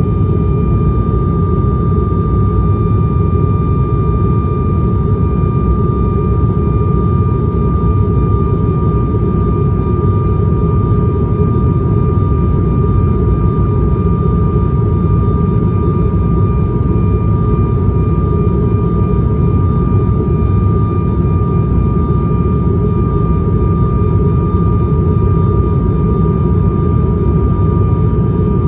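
ATR 72-500 cabin noise heard from a window seat: the turboprop engines and propellers give a loud, steady drone with a constant high-pitched tone over it, holding even throughout.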